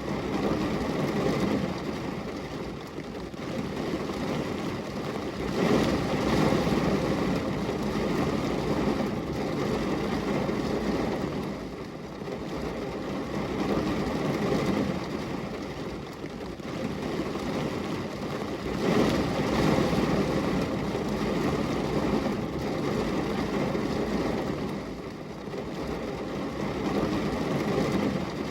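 Steady rain falling, an even wash of noise that swells louder a few times and then eases back.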